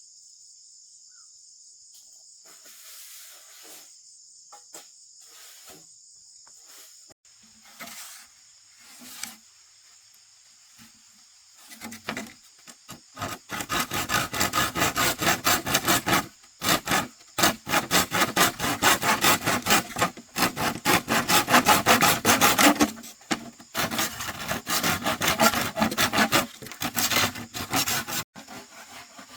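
Crickets chirring steadily; from about twelve seconds in, loud, rapid, rhythmic rasping strokes, like a tool sawing or scraping wood, take over.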